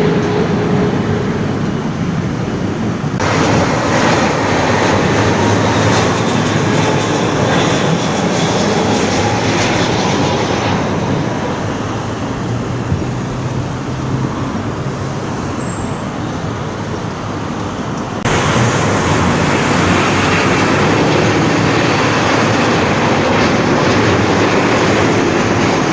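Jet airliners passing low on final approach to land, a loud steady engine noise. It changes abruptly three times where short shots of different aircraft are joined.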